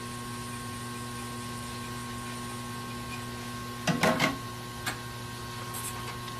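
Steady electrical hum with a few steady tones, broken about four seconds in by a quick cluster of clicks and knocks, then a single click about a second later: small parts or tools being handled on a workbench.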